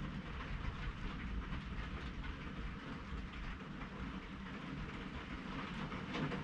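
Thunderstorm ambience: a steady low rumble with a crackly hiss of rain and wind over it.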